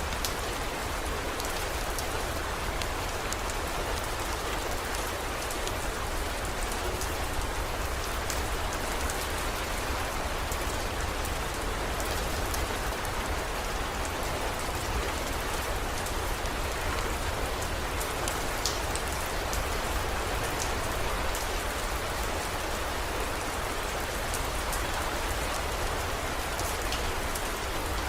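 Steady heavy rain falling on hard surfaces, with scattered sharp drop ticks and a steady low rumble underneath.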